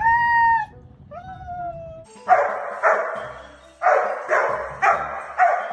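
Two long, high pitched cries, then a dog barking in a run of sharp barks about twice a second from about two seconds in.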